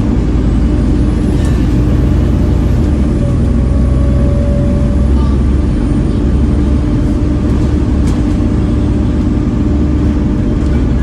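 Volvo B7TL bus's diesel engine running steadily under way, a low rumble with a steady whine over it and a faint high whistle that rises and falls slowly.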